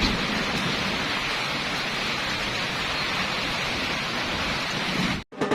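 Steady rain falling, a constant even hiss that cuts off suddenly near the end, where music begins.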